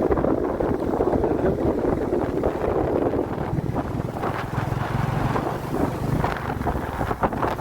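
Royal Enfield Classic 350 Reborn single-cylinder engine running under way, with wind buffeting the microphone.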